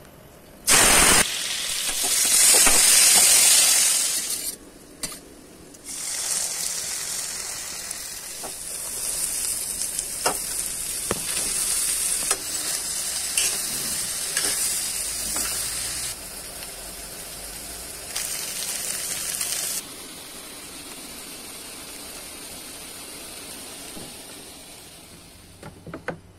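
Food going into hot oil and sizzling loudly in a pan, then chunks of meat frying and sizzling while a spatula stirs and scrapes them, with scattered clicks. The sizzle drops to a quieter steady hiss for the last few seconds.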